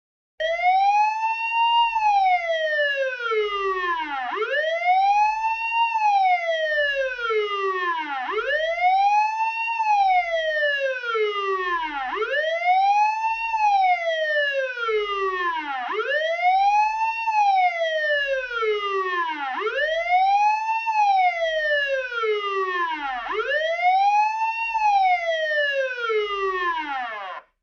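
Police car siren wailing: each cycle rises quickly in pitch and then falls more slowly, about one cycle every four seconds, seven cycles in all, then cuts off suddenly.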